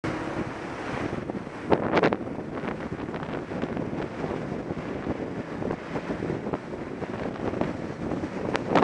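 Wind buffeting the microphone on a moving motorcycle: a steady rush of noise, with louder gusts about two seconds in and again near the end.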